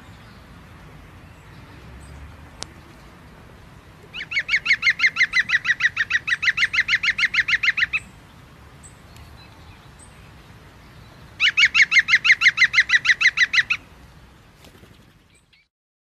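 A bird singing a rapid trill of evenly repeated notes, given twice: a long trill of about four seconds, then a shorter one of about two seconds.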